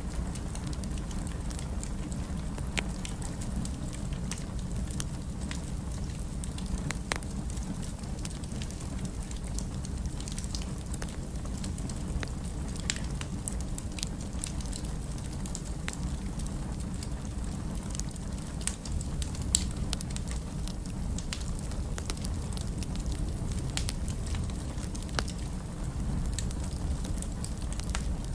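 Fire crackling in a fireplace: irregular sharp pops and snaps over a steady low rumble of the flames, with one louder pop about two-thirds of the way through.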